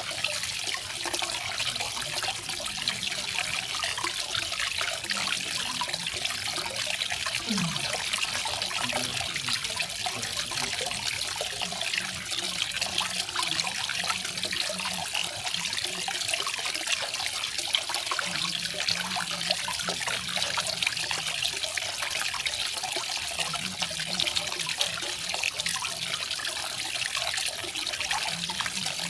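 Small garden waterfall: water falling and splashing in a steady, unbroken hiss.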